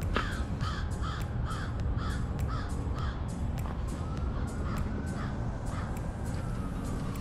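A bird calls about seven times, roughly two calls a second, over the first three seconds, then once more near six seconds, over a steady low rumble with scattered sharp clicks.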